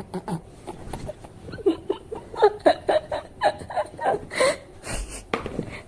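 A person laughing in a quick run of short bursts.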